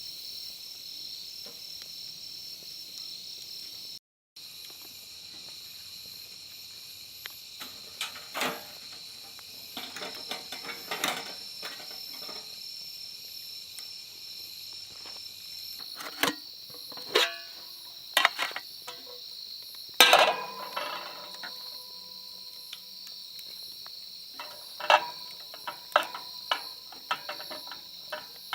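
Crickets chirping steadily, with scattered knocks and clatter from objects being handled, the loudest about two-thirds of the way through.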